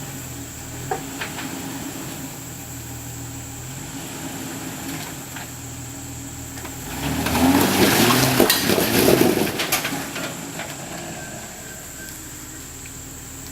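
Jeep Rubicon engine running slowly under crawling load, then revved louder for about three seconds in the middle with crunching knocks as the tyres work over the rock ledge, before easing back to a steady low run.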